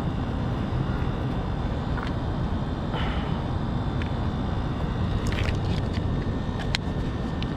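Steady low background rumble, with a few light clicks about five to seven seconds in.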